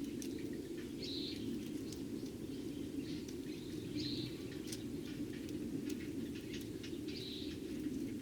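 Eurasian tree sparrows chirping: scattered short chirps and ticks, with three stronger calls about a second, four seconds and seven seconds in, over a steady low hum.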